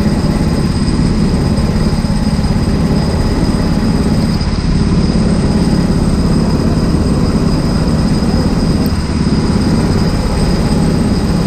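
Kart engine running steadily and loudly at an even pitch, with no clear revving up or down.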